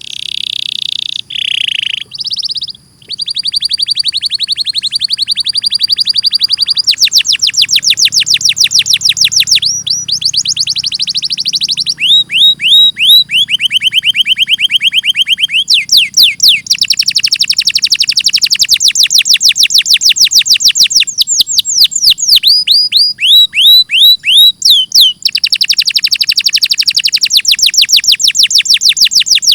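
Domestic canary singing a long, loud, nearly unbroken song of fast trills: each phrase is a rapid run of the same sweeping note repeated many times a second, held for a few seconds before switching to a different note.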